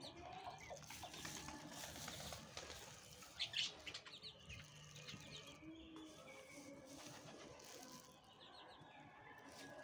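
Faint high bird chirps and peeps in short groups, the loudest about three and a half seconds in.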